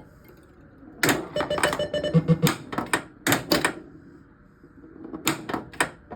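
1979 Gottlieb Pinball Pool pinball machine making a repeating sequence of sharp clicks and short electronic tones. The bursts come twice, with quieter gaps of about a second or more between them.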